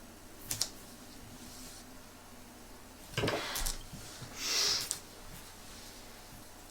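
Close-up handling noises: a couple of light clicks about half a second in, then two short rustling, scraping sounds near the middle.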